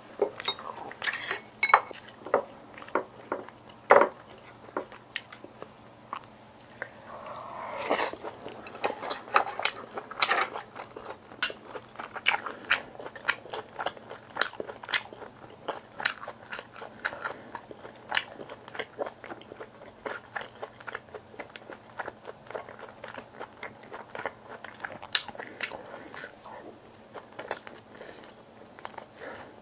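A person chewing and biting food, a steady run of short wet clicks and crunches with a louder one now and then.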